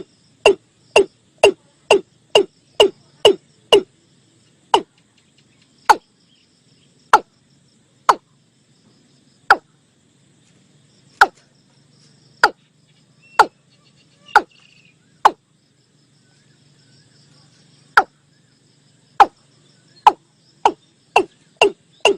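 Watercock (Gallicrex cinerea) calling in a series of short notes, each dropping sharply in pitch, as used in a lure recording. The notes come about two a second at first, slow to about one a second with a longer gap in the middle, then speed up again near the end.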